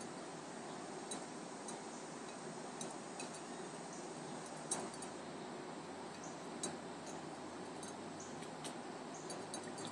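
Scattered light clinks and taps against a drinking glass as a small bird bathes in it, the loudest about five seconds in, over a steady background hiss.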